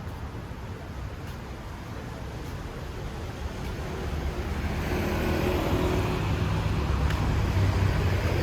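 Low rumble of an approaching motor vehicle, growing steadily louder through the second half.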